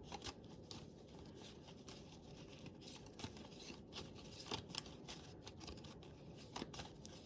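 Faint, irregular clicks and rustles of a deck of reading cards being handled and shuffled.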